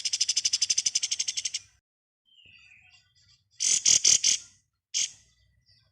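Kapas tembak bird singing in its 'ngebren' style: a fast rattling trill of evenly spaced pulses that stops after about a second and a half. After a pause come a few soft notes, then a loud cluster of about four harsh chattering notes around the four-second mark and one more short note near the end.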